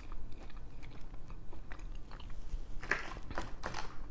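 A person chewing food, with soft mouth sounds throughout and a cluster of sharper, louder chewing clicks about three seconds in.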